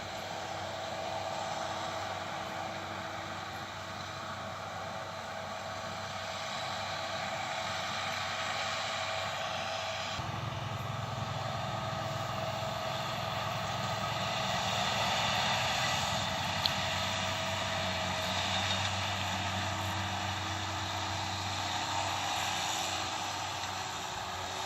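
Claas Lexion combine harvester working, a steady engine and machinery drone with fixed tones. A deeper drone joins about ten seconds in and the sound grows louder towards the middle, as if the machine draws nearer, with a single sharp click later on.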